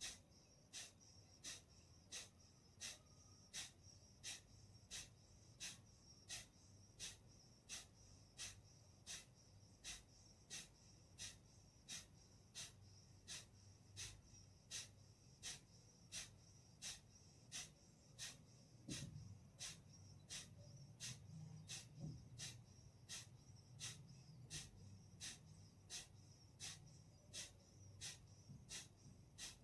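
Kapalbhati breathing: short, forceful exhalations puffed out through the nose, evenly spaced at just under two a second, with the passive in-breaths between them barely heard. The breaths are faint.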